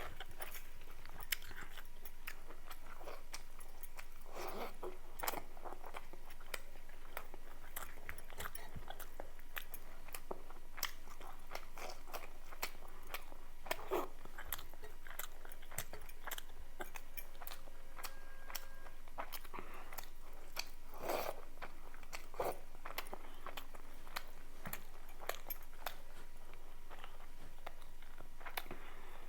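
Close-miked chewing and biting of a person eating: irregular wet mouth clicks and crunches, with a few louder bites.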